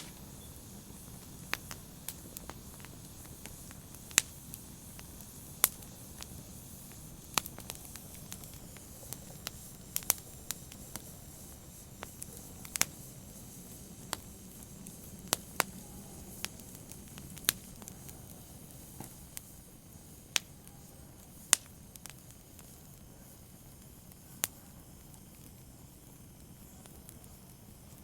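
Open fire crackling: irregular sharp pops and snaps over a soft low rustle of flames, growing sparse in the last few seconds.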